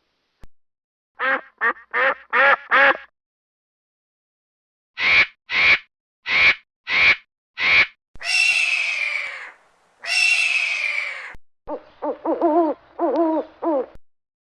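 A sequence of recorded animal calls from different animals. First five short calls in quick succession, then six evenly spaced short calls, then two long harsh calls, and near the end a fast wavering run of calls.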